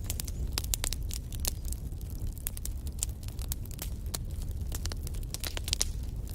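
Wood fire crackling, with frequent irregular sharp snaps and pops over a steady low rumble.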